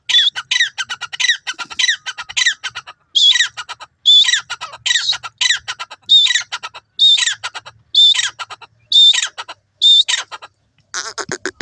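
Grey francolin calling: a loud, high, down-slurred note followed by a quick run of clicky notes, the phrase repeated about once a second. Near the end it breaks into a faster, harsher run of lower notes.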